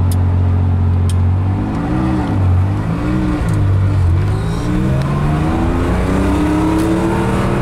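1978 Porsche 911 SC's freshly rebuilt air-cooled 3.0-litre flat-six, heard from inside the cabin while driving. It runs steadily for a second or so, then its revs rise and dip a few times, then climb steadily near the end.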